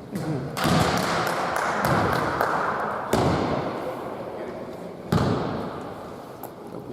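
Basketball game sounds in a sports hall: a ball thudding on the court, with two sharp thuds about three and five seconds in, over a loud din of voices and court noise that jumps up just over half a second in.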